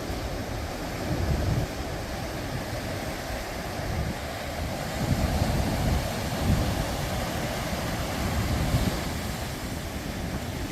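Pacific Ocean surf washing and breaking steadily, with wind buffeting the microphone in irregular low gusts.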